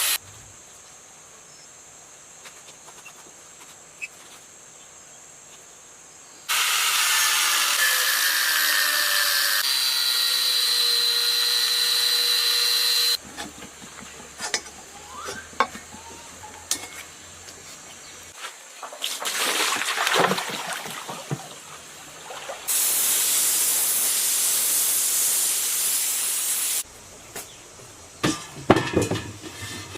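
Workshop tool work in separate spells: two long stretches of steady power-tool cutting or grinding noise, one with a steady whine through it, with tapping, clicks and clatter between them and a few sharp knocks near the end.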